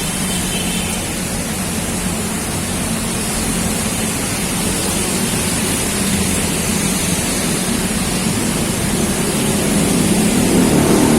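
Heavy rain pouring down in a steady, loud rush. Near the end, a passing vehicle's engine grows louder under the rain.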